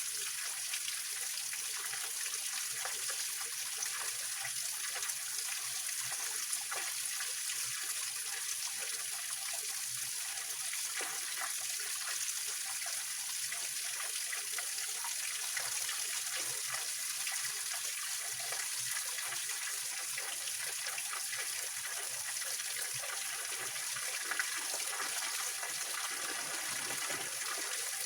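Small mountain-stream waterfall splashing and trickling over rocks: a steady, hissy rush of falling water with many small splashes.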